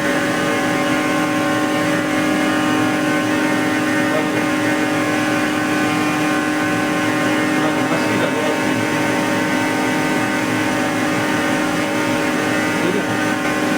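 Danfoss 90R250 axial piston hydraulic pump running steadily on a test bench with its drive, a strong hum with several steady whining tones above it. It is being run at reduced flow during a post-repair test.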